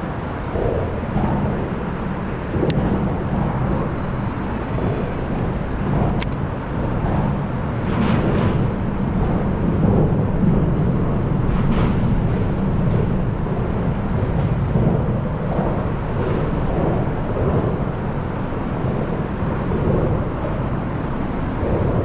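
Footsteps on a walking path, a soft step about every half to three-quarter second, over a steady low outdoor rumble.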